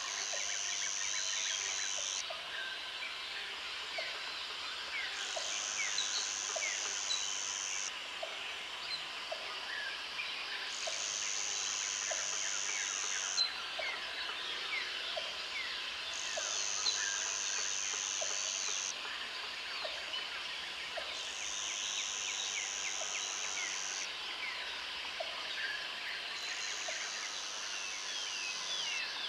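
Jungle ambience: an insect buzzes high and shrill in phrases of about two and a half seconds, six times, roughly every five seconds, over a dense chorus of bird chirps and whistles and a steady insect drone.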